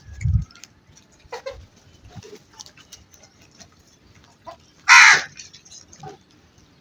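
A crow gives one loud, harsh caw about five seconds in, with a few fainter calls around it. A short low thump comes right at the start.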